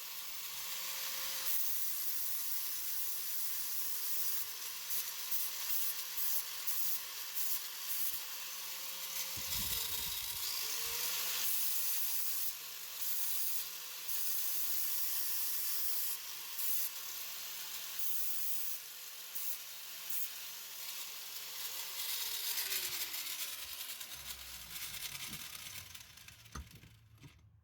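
Aerosol spray paint can hissing as the repaired mower gauge wheel arm is painted, in passes with short breaks between them, stopping near the end.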